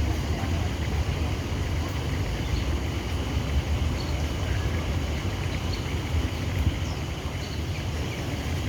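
Steady low rumble of outdoor background noise, with faint short bird chirps now and then.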